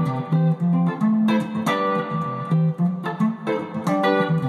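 Guitar playing a chord pattern in a steady rhythm: a low root note on each chord with the upper notes plucked over it, the chords changing about every half second.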